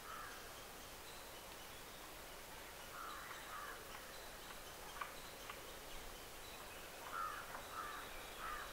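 Faint bird calls, short caws in runs of two or three, with a couple of sharp clicks about five seconds in.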